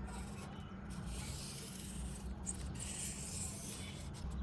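Continuous rubbing or scraping on thermocol foam, over a low steady hum.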